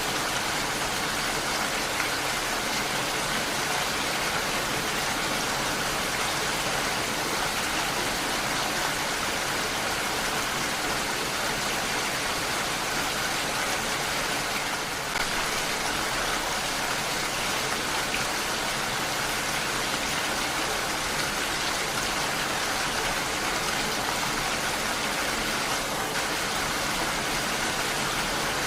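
Steady heavy rain, a dense even hiss of falling drops without pause.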